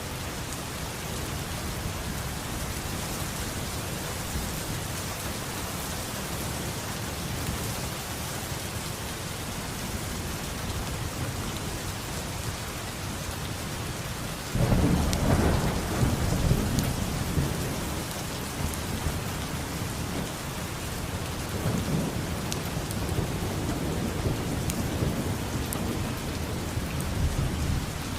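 Steady heavy rain falling on a surface, with a loud roll of thunder starting about halfway through that rumbles on for several seconds, and a weaker rumble after it.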